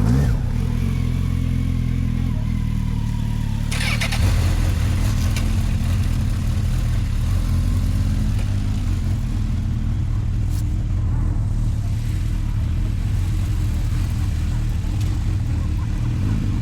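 BMW R1250GS Adventure's boxer-twin engine idling steadily just after starting, with a brief louder rush about four seconds in.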